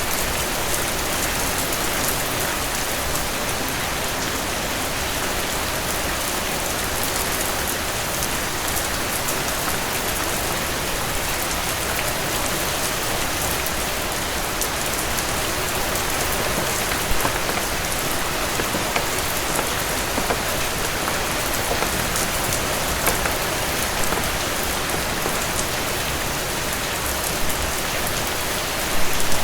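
Heavy rain falling steadily on a cabin porch, an even hiss, with a few sharper clicks or pops standing out near the end.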